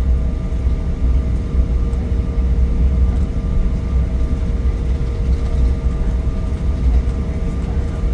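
Steady cabin noise inside an Embraer E175 regional jet: a deep, even rumble with the engines' steady tones over it.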